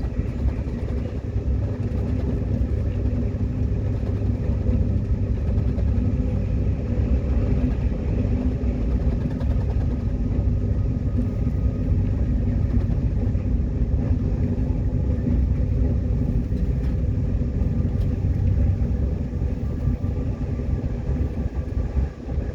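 Steady low rumble of a high-speed train running at speed, heard from inside the passenger cabin, with a few faint steady tones above the rolling noise.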